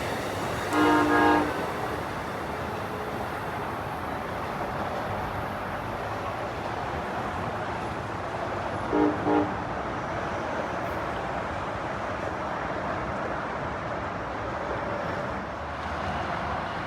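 Amtrak regional train led by an ACS-64 electric locomotive passing steadily, with a train horn giving two short blasts about a second in and two more about nine seconds in.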